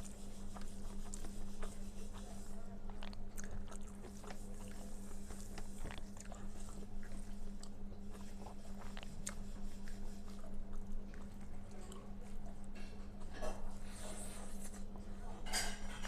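Close-up mouth sounds of chewing a meal of white rice, red amaranth greens and potato curry: soft wet smacks and small clicks, a few louder ones near the end. A steady low hum runs underneath.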